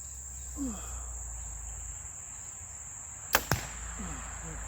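A bow shot: a sharp snap as the string releases the arrow, followed a split second later by the arrow striking the target. Crickets chirr steadily underneath.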